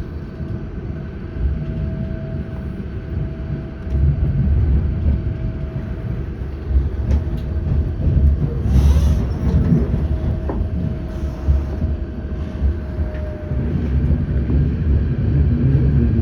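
Auckland Transport AM class electric multiple unit running along the line, heard from inside the carriage: a steady rumble of wheels on rail with a steady whine running through it. There is a brief burst of hiss about nine seconds in.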